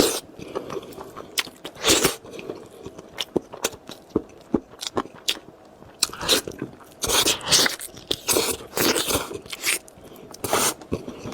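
Close-miked biting and chewing of crispy spicy lamb chops: irregular crunches and wet mouth clicks, in clusters with short pauses between.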